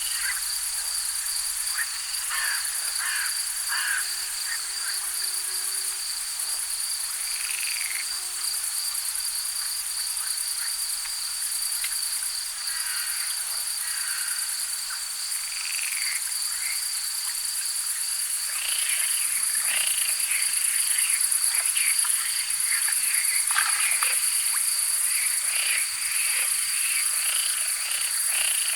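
Frogs croaking in a chorus of short repeated calls over a steady high trill of crickets. The croaking grows busier and louder about two-thirds of the way through.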